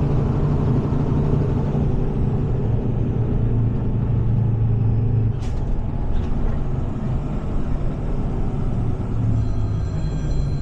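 Heavy tow truck's diesel engine running steadily while driving, a constant low drone heard from inside the cab, with two faint ticks about halfway through.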